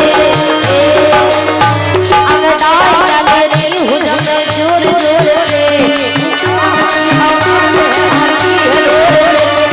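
Folk-song band playing live: a steady hand-drum beat and rapid jingling percussion under a wavering melody.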